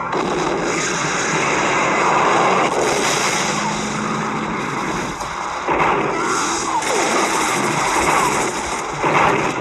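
Car-chase film soundtrack: a car engine running hard under a loud, continuous rushing noise, with a few brief rising and falling tones, and a shift in the sound about five and a half seconds in.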